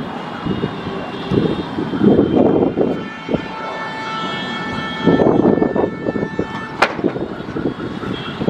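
Jet aircraft engines whining at a steady pitch, with two stretches of irregular low rumble and a single sharp click near the end.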